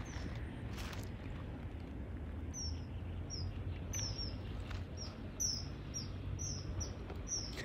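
A small bird calling over a low steady outdoor rumble, repeating short high chirps that each fall in pitch, about two a second, starting a couple of seconds in.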